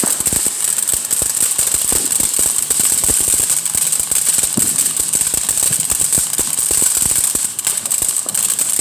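Ground firework going off: a dense, continuous crackle over a steady high hiss.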